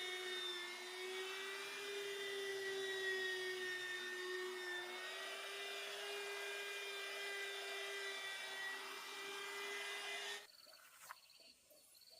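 A small motor running at a steady, high whine with only slight wavering in pitch, which cuts off abruptly about ten seconds in, leaving faint insect chirping.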